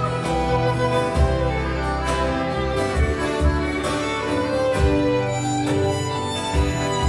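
Live band playing an instrumental passage without vocals, sustained melody notes over low notes that change every second or so.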